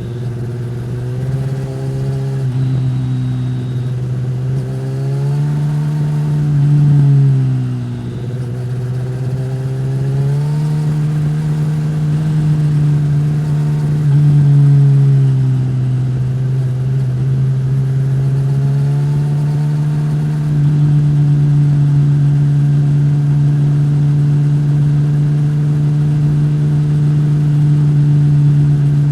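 2015 Suzuki GSX-S1000's inline-four through a Yoshimura R-11 slip-on exhaust, revs rising and falling several times under changing throttle. It settles to a steady cruise for the last third.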